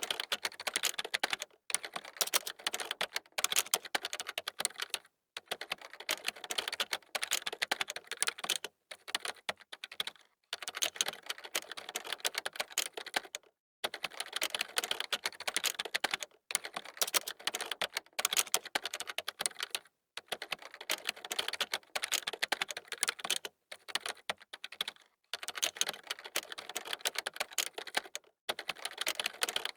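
Computer keyboard typing: fast runs of key clicks in bursts of a second or two, broken by short pauses.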